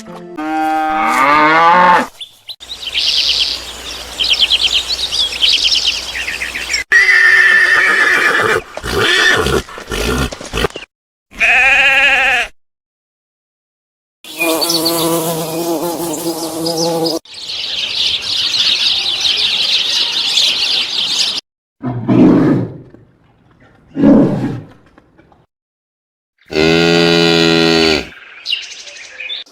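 A run of separate animal calls, each a short clip cut hard against the next, mostly farm-animal calls: pitched bleats and lowing with rich harmonics, between stretches of high chirring. The calls are separated by brief silences.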